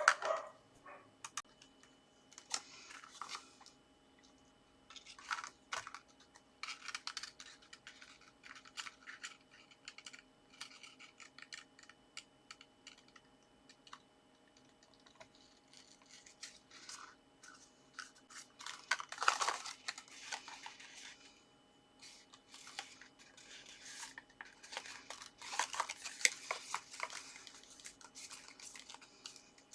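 Card and paper being handled and pressed into place by hand: intermittent rustling and scraping with small clicks, the louder stretches about two-thirds of the way through and near the end.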